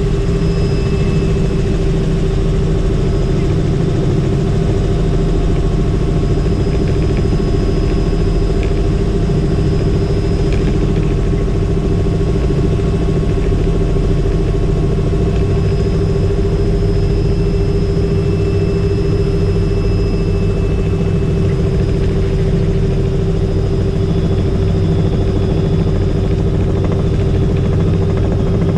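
Helicopter flying steadily: a loud, even drone of engine and rotors with a constant hum.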